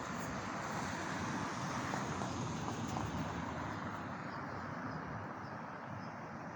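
Steady outdoor street noise, an even rushing hiss with no distinct bird calls standing out.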